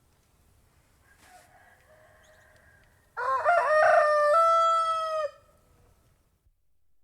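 Rooster crowing once, a loud cock-a-doodle-doo starting about three seconds in and lasting about two seconds, stepping up in pitch and then held before it cuts off. A fainter sound comes before it.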